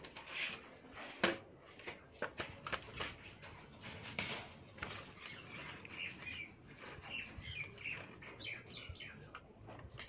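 Small birds chirping in short calls, mostly in the second half, over scattered knocks, clicks and rustling.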